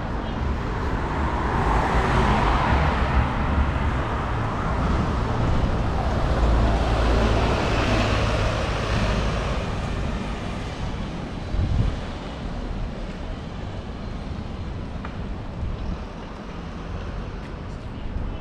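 Road traffic passing: a steady rush of tyres and engines with a low rumble, swelling twice as vehicles go by, then easing off.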